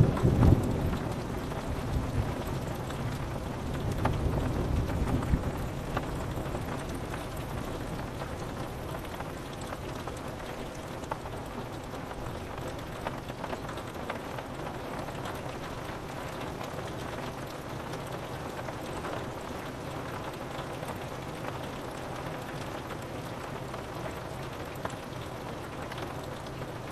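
Steady rain on a window, with thunder rumbling loudly at the start, a second lower roll of thunder around four to five seconds in, then rain alone.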